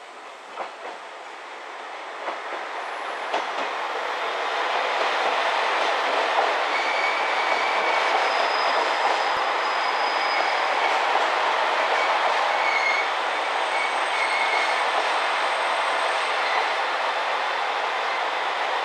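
Chizu Express HOT7000-series diesel limited express train passing close by on the track: growing louder over the first few seconds as it approaches, then a steady rolling noise as the cars go past, with brief thin high squeals from the wheels now and then.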